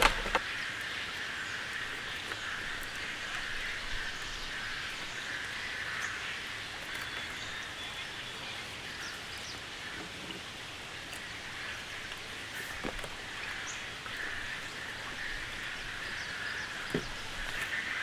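Steady rain falling, an even hiss with a few separate drop taps.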